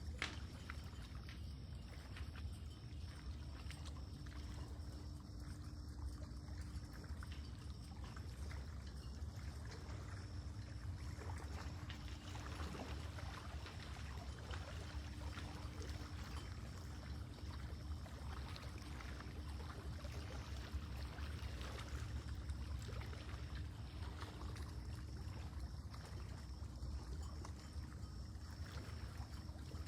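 Lake water lapping and trickling gently at the shore, a steady soft splashing over a low rumble.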